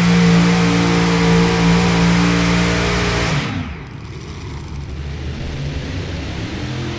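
Unlimited modified pulling tractor engines at full throttle, a loud steady high drone. About three and a half seconds in, the throttle is chopped and the pitch falls quickly to a lower, quieter running.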